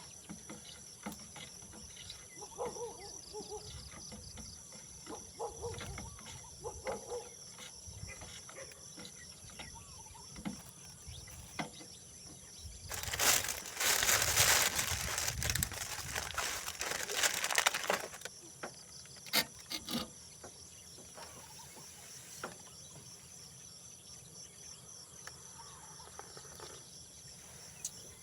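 Insects trilling steadily in a high, unbroken band, with scattered clicks and knocks. About halfway through, a loud rushing noise lasts around five seconds and then stops.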